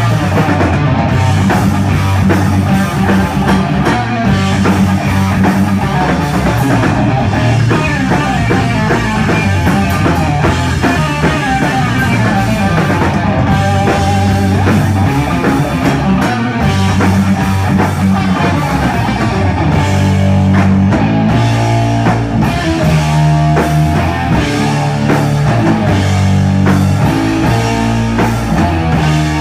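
Live stoner rock band playing loud and steady: an instrumental stretch of electric guitar riffs over drum kit, with heavy low riff notes shifting underneath.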